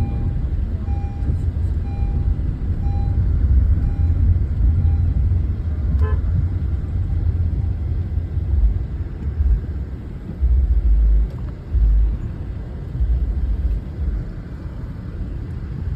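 Low rumble of tractors on the move, surging in level now and then, with a faint short beeping tone repeating about twice a second during the first five seconds.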